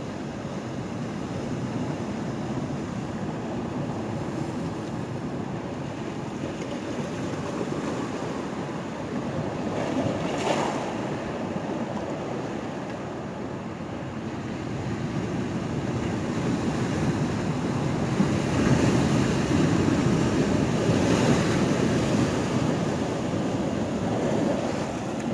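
Ocean surf washing and breaking, a continuous rush with a brief surge about ten seconds in and louder swells building in the second half.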